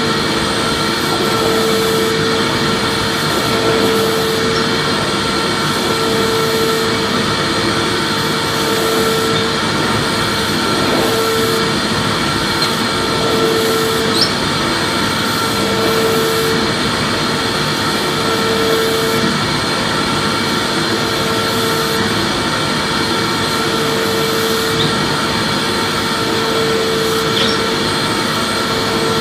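Vacuum cleaner motor running steadily: a constant rushing hiss with a steady whine, and a lower hum that comes and goes about every two seconds.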